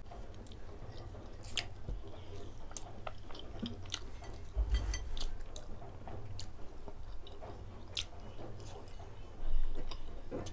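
Close-miked chewing of grilled pork barbecue: wet mouth clicks and smacks scattered irregularly, over a steady low hum.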